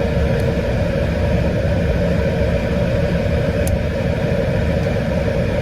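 Steady rumble of a car's engine and road noise heard from inside the cabin, with one light click about two thirds of the way through.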